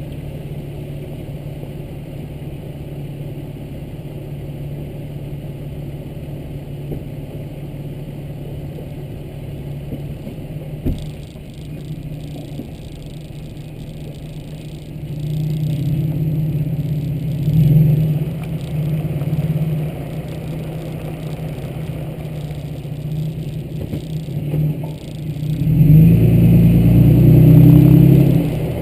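2010 Toyota Tacoma pickup driving, its engine running steadily, then picking up speed about halfway through and again near the end. There is a single knock about eleven seconds in.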